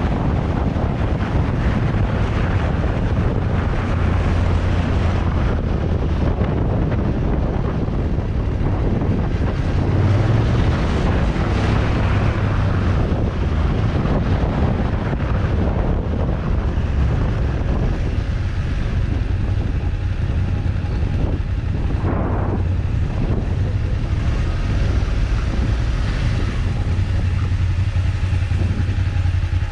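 Motorcycle engine running on the move, its note rising and falling with the throttle, with steady wind noise buffeting the microphone.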